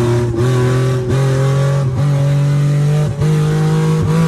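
Infiniti G37's VQ37VHR V6 running with no exhaust under acceleration, its pitch climbing in steps and broken by short, sharp dips about once a second.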